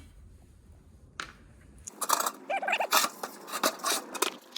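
Sheet-metal blower parts being handled and taken apart: irregular clinks and clatter starting about two seconds in, with a short wavering squeak.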